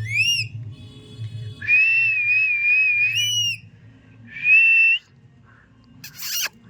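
Pet parrot whistling: a quick rising chirp, then a long warbling whistle, then a shorter steady whistle, ending with a brief harsh squawk near the end.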